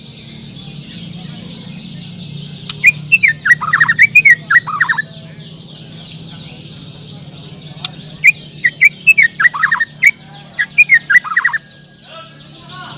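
Many caged white-rumped shamas (murai batu) singing at once as a dense, high chirping chorus. One loud bird breaks in twice, about three seconds in and again about eight seconds in, with rapid runs of sharp, falling whistled notes.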